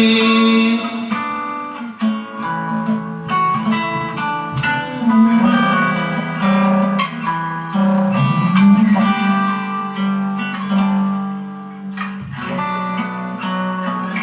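Guitar playing an instrumental passage of held chords between sung lines of a devotional song. A voice finishes singing one word right at the start.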